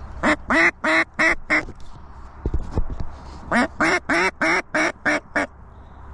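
Mallard duck call blown as hen quacks: a run of five quacks, a pause, then a run of seven, about three a second. A couple of low bumps fall in the gap.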